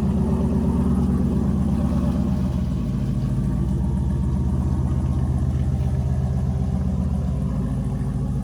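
Jeep Wrangler JK engine running steadily at low revs, its pitch dropping slightly about three seconds in.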